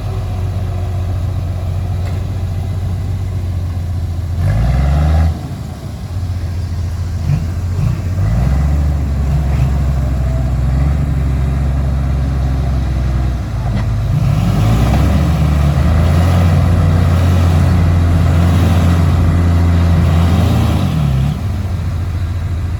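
Heavy diesel engine of earthmoving machinery working under load. Its pitch rises briefly about five seconds in, and it gets louder from about halfway, where it revs up and down repeatedly.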